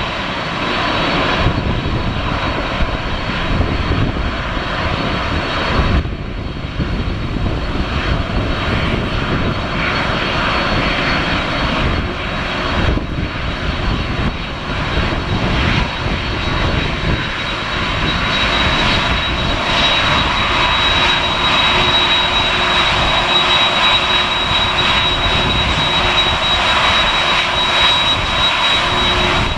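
Jet engines of an ANA Boeing 767-300 on its arrival: a loud, steady roar with a high whine that grows stronger in the second half.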